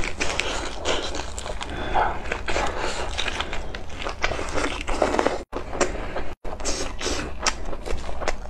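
Close-miked biting and chewing of a leaf-wrapped grilled sausage with kimchi: wet, crunchy chewing made of many short crunches and clicks, broken twice by a brief silence a little past the middle.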